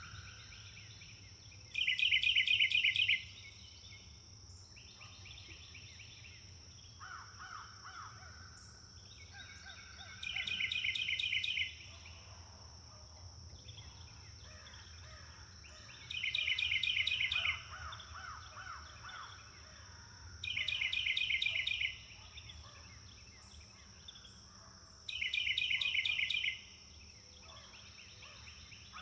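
Forest birds singing: one bird repeats a loud, rapid trilled phrase about five times, each lasting about a second and a half, while quieter, lower trills and calls fill the gaps. A steady high-pitched tone runs underneath.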